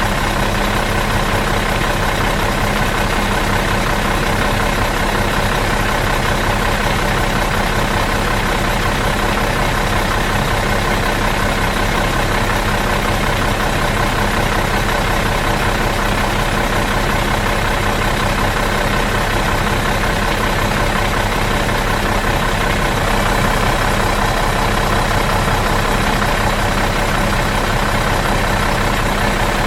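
Bus engine idling out of gear: a steady, even hum with no change in speed.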